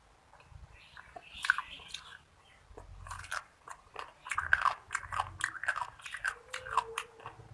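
Close-miked eating of Indian food: biting and chewing, with a loud bite about a second and a half in and a dense run of crunchy mouth clicks through the second half.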